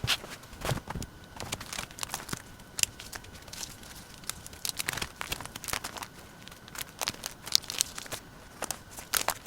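Paper and stickers being handled: irregular crinkling, rustling and small taps, with a brief tearing or peeling sound now and then.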